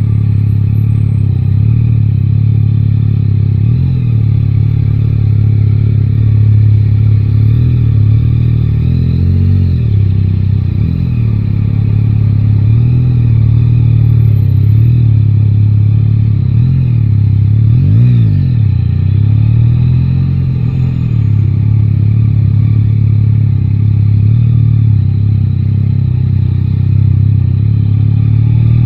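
Yamaha Tracer 9 GT's inline three-cylinder engine running at a fairly steady pace in city riding, heard from the rider's position. Its revs wobble now and then, drop and pick up again sharply about eighteen seconds in, and begin climbing near the end.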